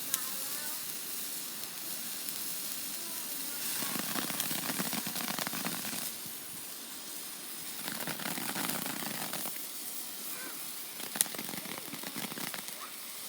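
Small consumer fireworks fizzing and hissing as they burn, swelling louder twice, with one sharp pop about eleven seconds in.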